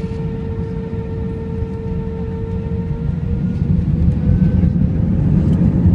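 Airbus A320 engines heard inside the cabin: a steady whine over a heavy rumble. About halfway through, the whine begins to rise in pitch and the rumble grows louder as the engines spool up for takeoff.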